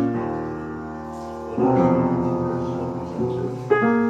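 Background music: piano chords struck and left to ring, a new chord about one and a half seconds in.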